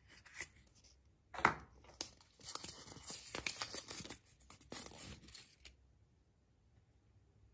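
Wrapping being torn open and crinkled by hand: a few handling clicks, a sharp rip about a second and a half in, then a few seconds of continuous tearing and crackling that stops suddenly.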